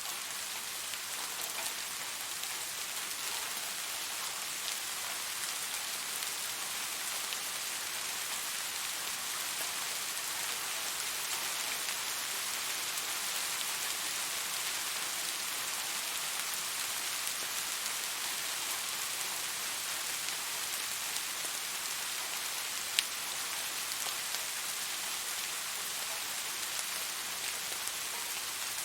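Steady rain falling on surfaces, a dense even hiss with scattered individual drop ticks, and one sharper, louder drip about three-quarters of the way through.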